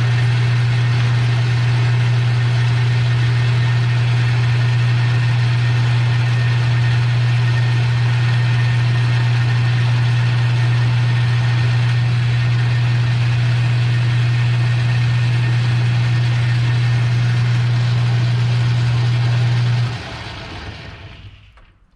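Metal lathe running steadily while turning down a shoulder on a hinge pin, a strong motor hum under a steady cutting hiss. About twenty seconds in the motor is switched off and the sound dies away to quiet.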